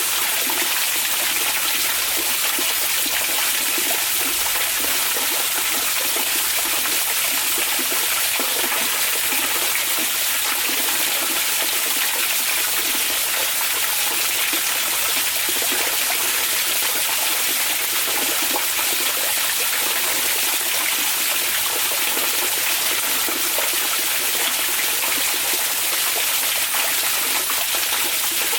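Hot-spring water flowing steadily: a continuous, even rush of water with no breaks or changes.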